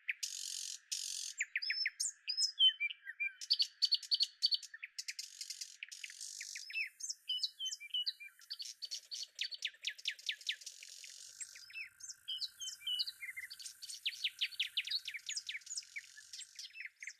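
Several small birds chirping and trilling: quick rising and falling chirps, fast runs of clicking notes, and a few short buzzy notes.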